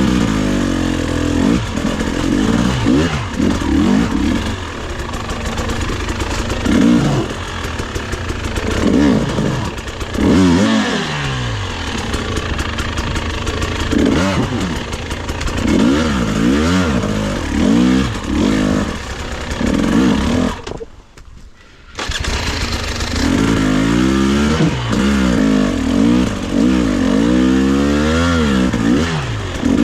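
Dirt bike engine revving up and down over and over as the throttle is worked on a technical trail. The sound drops away for about a second roughly two-thirds of the way through, then the revving resumes.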